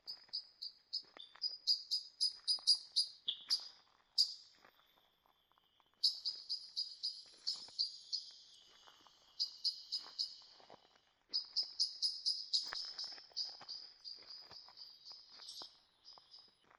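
A songbird singing three phrases of rapid repeated high notes, each a few seconds long with short pauses between. Soft footsteps on the trail are faintly heard underneath.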